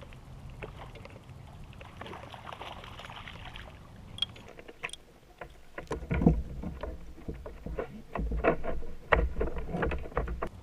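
Knocks and thumps on a plastic fishing kayak's hull and gear, coming in a busy run from about halfway in, after a short stretch of soft hiss.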